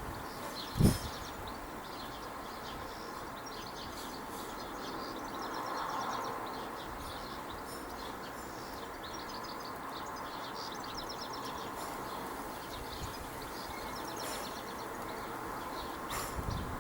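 Small garden birds chirping and twittering in quick short notes over a steady background rumble, with a low thump about a second in and a few softer ones near the end.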